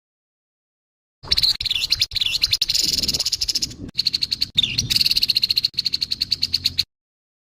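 Grey-headed babbler giving harsh, rasping rattle calls: fast streams of many short pulses a second with a few brief falling notes, starting about a second in and cutting off abruptly near the end.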